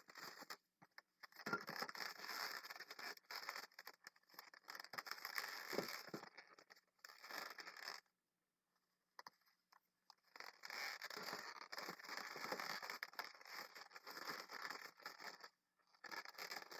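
Latex 260 modelling balloons rubbing and scraping against each other and against the hands while being twisted and connected. The sound comes in irregular stretches and drops out for a moment about halfway through.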